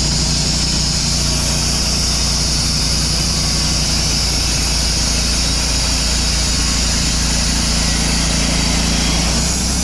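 Portable sawmill's gas engine running steadily under load while the saw blade cuts through a cherry log, with a strong, even hiss from the cut over the engine.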